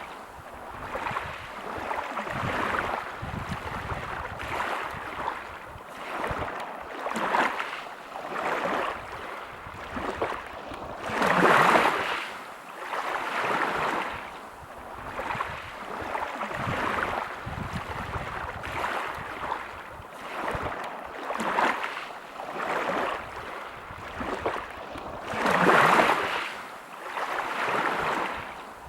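Small waves breaking on a pebble beach, each swelling and washing back every couple of seconds, with two larger waves about a third of the way in and near the end.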